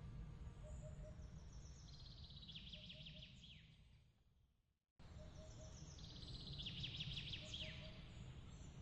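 Bird chirps and rapid trills ending in a downward sweep, over a steady low rumble. The sound fades out about four seconds in and cuts back in a second later, repeating the same chirp pattern as a loop.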